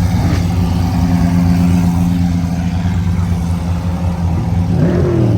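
Car engine running with a steady low note, then a quick blip of the throttle near the end, its pitch rising and falling back.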